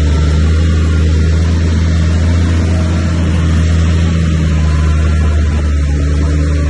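Heavy diesel engine running steadily under load, a deep, even drone.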